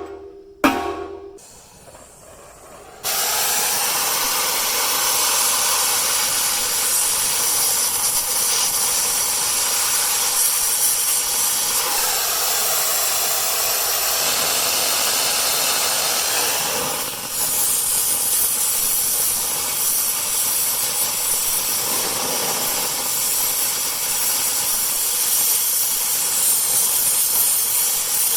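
Two sharp knocks at the very start, then a loud, steady hiss that starts about three seconds in and runs on, dipping briefly past halfway.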